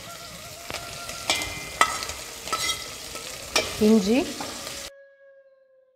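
Green chillies and ginger sizzling in hot oil in a metal pan, stirred with a metal ladle that scrapes and knocks against the pan again and again as they sauté for a masiyal tempering. The frying cuts off suddenly about five seconds in.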